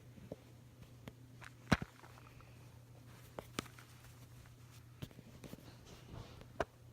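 Scattered sharp clicks and taps of hands handling things close to the microphone, about four in all, the loudest a couple of seconds in, over a faint steady low hum.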